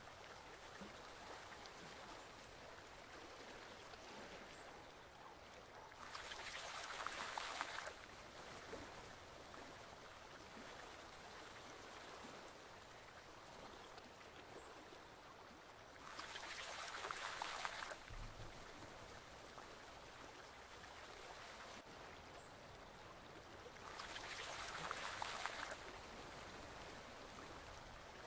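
Forest stream flowing steadily, with three louder rushes of about two seconds each, coming every eight to ten seconds.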